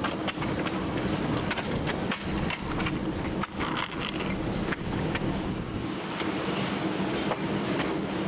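TU7 narrow-gauge diesel locomotive under way: the engine drones steadily while the wheels give many irregular clicks and knocks over the track.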